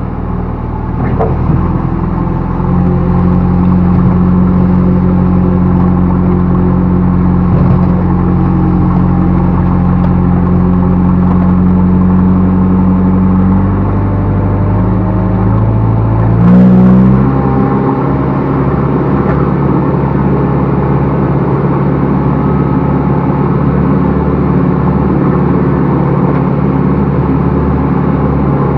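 Backhoe loader's diesel engine running steadily as the machine works. A little past halfway its note changes sharply with a brief swell, then settles at a new steady speed.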